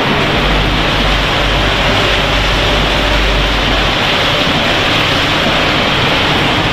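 Snack production-line machinery running, a loud steady noise with a low hum underneath through the first few seconds.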